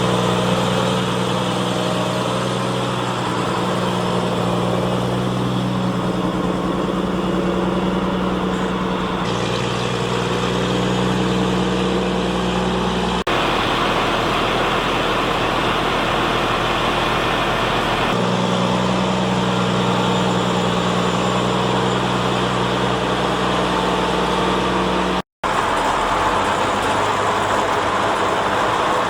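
Claas Xerion 3300 tractor's diesel engine running steadily under load on a silage heap. The sound changes abruptly twice between shots and drops out for a moment about 25 seconds in.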